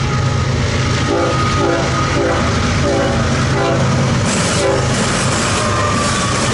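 An eastbound BNSF freight train passes close by, its lead GE diesel locomotives running loud with a deep throb that eases about four seconds in. A bell rings over it at a little under two strokes a second for a few seconds.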